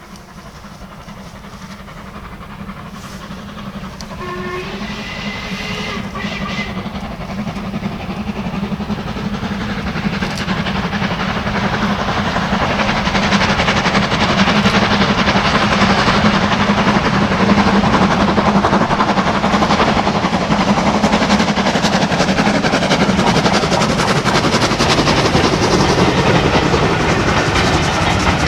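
Steam train approaching and passing close by, growing louder over the first half and then staying loud with the rumble and clatter of the train. A brief steam whistle sounds about four seconds in.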